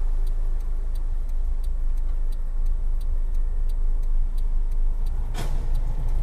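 Car driving, heard from inside: a steady low engine and road rumble with faint, regular ticking about three times a second. A short knock comes about five seconds in.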